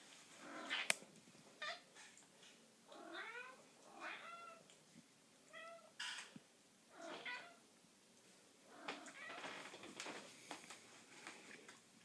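Domestic cat meowing repeatedly in short calls that bend up and down in pitch, with a sharp click about a second in.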